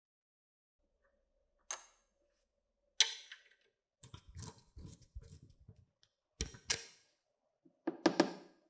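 Scattered sharp clicks and knocks of small parts and tools being handled on a workbench: single strikes, a quick run of light ticks in the middle, and a short cluster near the end, with silence between.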